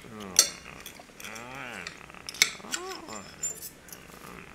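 A cat meows three times, each call bending in pitch, the middle one longest. Sharp metallic clinks, like cutlery or dishes, come about half a second in and near the middle.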